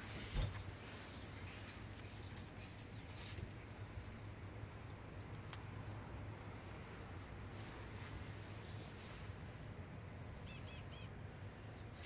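Small wild birds chirping faintly: scattered short high calls, with a quick run of repeated notes near the end. A thump just after the start.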